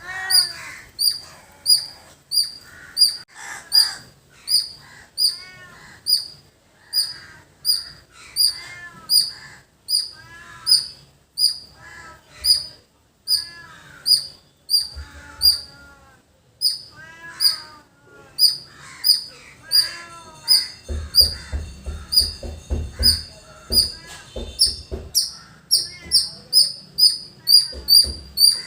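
Squirrel calling a long run of sharp, high chirps, repeated evenly about two times a second. Other bird calls sound behind it, and a patch of low rumbling thumps comes about two-thirds of the way through.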